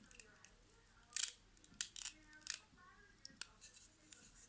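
Irregular sharp clicks and snaps of small plastic parts being worked by hand, as old headphones are pried apart to get their speakers out.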